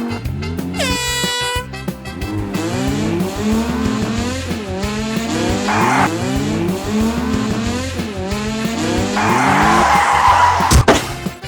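Race-car sound effects over background music: a horn blast about a second in, then a long run of repeated rising engine revs, with skidding tyre noise around six seconds and again near ten seconds.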